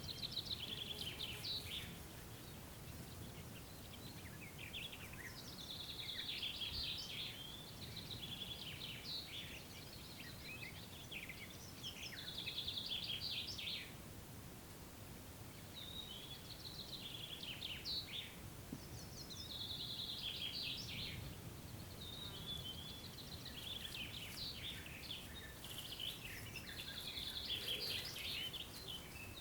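Songbirds singing in short, repeated phrases of high chirps and trills, with brief pauses, over a faint low background rumble.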